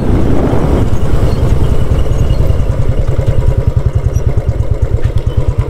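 Motorcycle engine running while riding, a loud, even, low pulsing beat.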